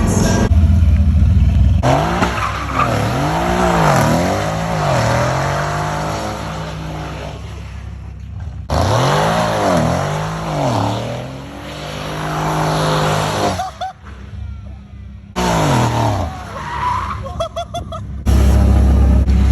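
Car engine revving up and down in repeated swells with tyre screech during drifting; the sound changes abruptly several times.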